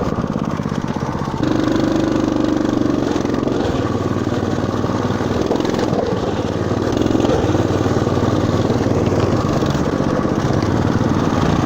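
Motoland RT200 pocket all-terrain motorcycle's engine running steadily under load while riding through mud, getting slightly louder about a second and a half in.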